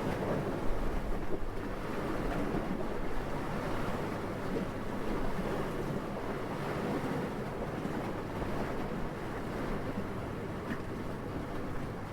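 Steady wind, a low, even rushing, with a stronger gust buffeting deeply about a second in.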